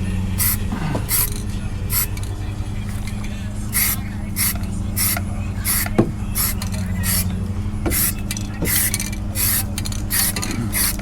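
Aerosol can of primer sprayed in short, quick bursts of hiss, over a steady low hum.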